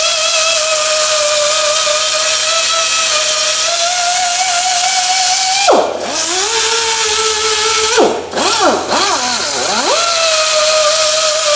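Grinder running with a steady high whine as it grinds down a TIG-welded throttle-linkage part, its pitch dropping sharply and recovering about halfway through and several more times a couple of seconds later as it is pressed into the metal.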